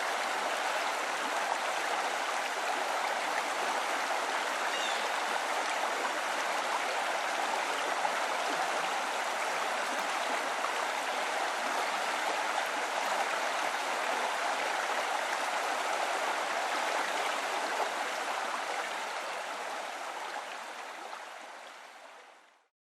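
Steady rushing of running water, like a stream, fading out over the last few seconds.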